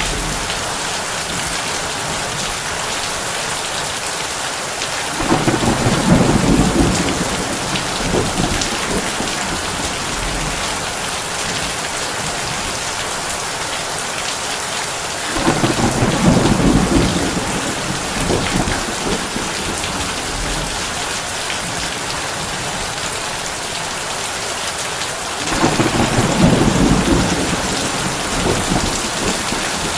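Heavy rain on a tin roof as a steady hiss, with three rolls of thunder about ten seconds apart, each rumbling for a few seconds.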